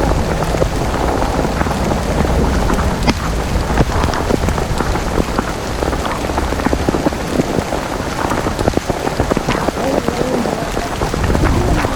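Heavy rain pouring, a dense steady hiss with many individual drops striking close by.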